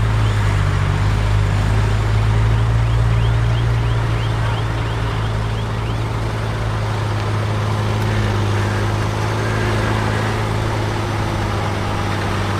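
Heavy diesel engine of earthmoving equipment running steadily with a deep, even hum.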